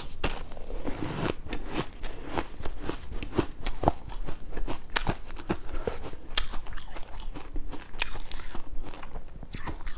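A person biting into and crunching freezer frost ice: a dense, irregular run of sharp crunches, several each second.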